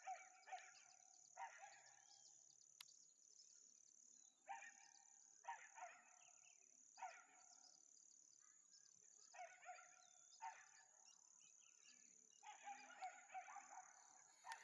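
Faint outdoor night-insect chorus, a steady high-pitched chirring, with a dog barking in irregular short bouts of several barks. No drone motor is heard.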